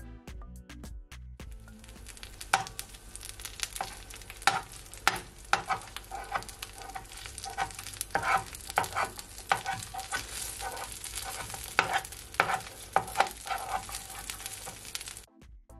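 Filled flour tortilla frying in oil in a nonstick pan: a steady sizzle with frequent sharp crackles and spits. It starts about a second and a half in and cuts off just before the end.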